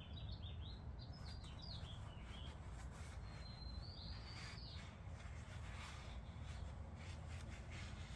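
Faint bird chirping: a quick run of short rising chirps, then a thin whistled note about three to four seconds in. Soft rustling and light clicks of a rag wiping up spilled oil run underneath.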